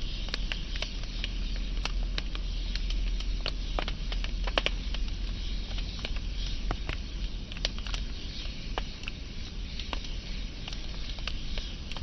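Wood fire burning with a steady hiss and frequent sharp, irregular crackles and pops, over a low rumble.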